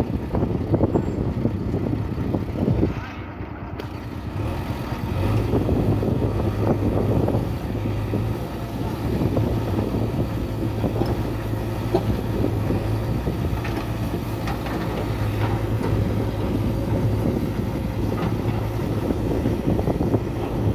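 Heavy vehicle's diesel engine running, a rough low rumble that settles into a steady drone from about five seconds in.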